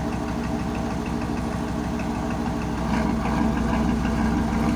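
A tugboat's engine running steadily with a fast, even knock, growing a little louder about three seconds in.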